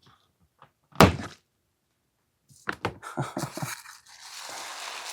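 Box and parts containers being handled on a table: one loud thunk about a second in, a few quick clicks and knocks, then a rustling, scraping noise.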